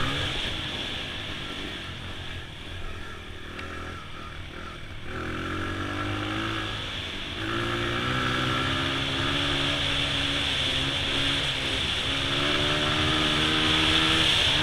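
Honda XR100 dirt bike's single-cylinder four-stroke engine on the trail. It eases off for a few seconds, then pulls again, louder, with the pitch stepping a couple of times as the throttle and gears change.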